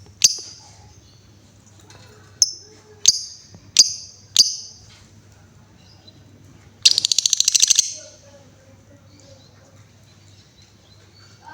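Female lovebird calling: five sharp, high chirps in the first few seconds, then a rapid ticking chatter lasting about a second near the seven-second mark. A faint steady low hum runs underneath.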